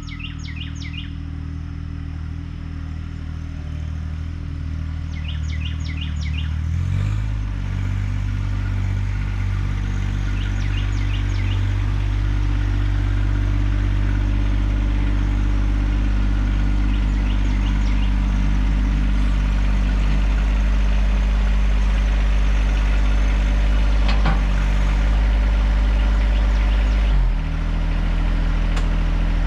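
John Deere 1025R compact tractor's three-cylinder diesel engine running near idle, throttled up about seven seconds in and held at higher revs, then throttled back down near the end. Birds chirp now and then.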